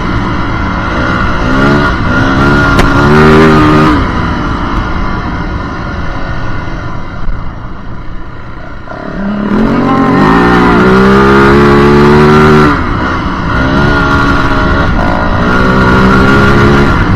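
Yamaha WR450F's single-cylinder four-stroke engine under riding load, revving up and dropping back in pitch again and again as the gears are shifted. It eases off for a few seconds in the middle, then pulls hard again from about nine seconds in.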